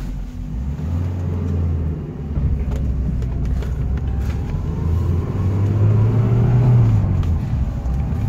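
1986 Alfa Romeo Spider Veloce's 2-litre twin-cam four-cylinder engine pulling away and accelerating through the gears, heard from inside the cabin; the engine note rises, drops at a shift about two seconds in, then climbs again and drops near the end.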